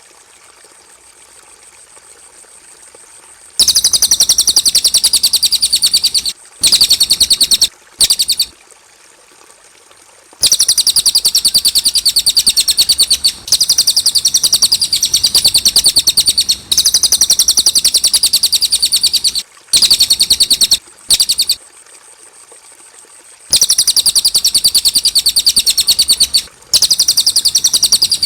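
Cililin bird singing: high, rapid chattering trills in bouts of a few seconds, broken by short pauses, starting a few seconds in.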